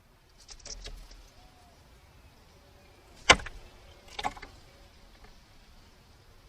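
Red-bellied woodpecker pecking and tapping at seed: one loud, sharp tap about three seconds in, a quick cluster of taps about a second later, and fainter ticks near the start.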